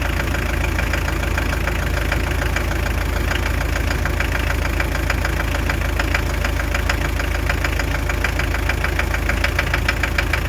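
Hyundai Terracan's 2.5-litre D4BH four-cylinder turbodiesel idling with a fast, regular knock that grows stronger over the second half. The mechanic later puts the knock down to a faulty No. 4 injector.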